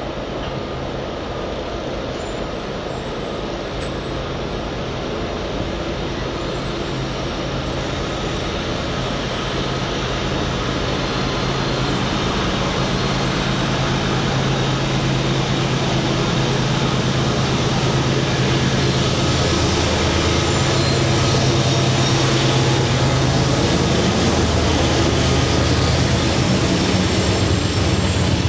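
Diesel locomotives leading a CSX mixed freight train, approaching with a steady low engine drone that grows louder throughout.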